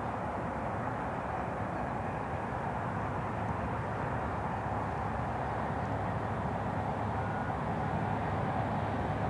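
Distant approaching BNSF double-stack train led by GE ES44AC diesel locomotives: a steady low rumble that slowly grows louder.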